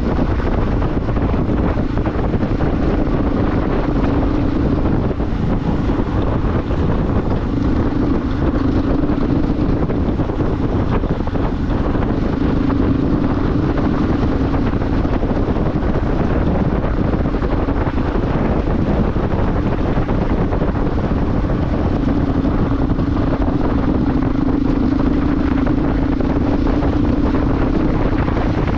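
Motorcycle riding at a steady cruise, its engine a steady hum under heavy wind rush on the microphone.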